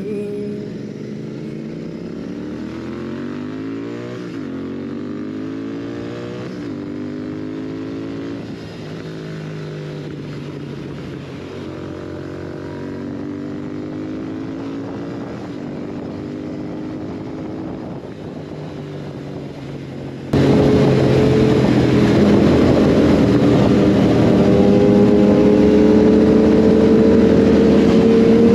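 Royal Enfield Continental GT 650's parallel-twin engine under way, revving up and dropping back through several gear changes. About two-thirds of the way through it suddenly gets much louder, with heavy wind rush and the engine pitch climbing steadily under hard acceleration.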